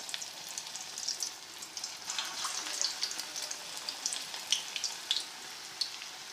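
Bread kababs frying in hot oil: a steady sizzle with many small crackling pops.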